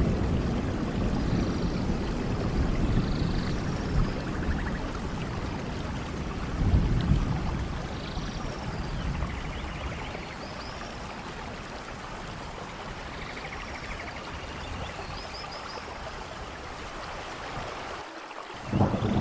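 Steady heavy rain in a rainforest, with low thunder rumbling at the start and again around seven seconds, easing later on. Faint short high chirps sound over the rain every few seconds.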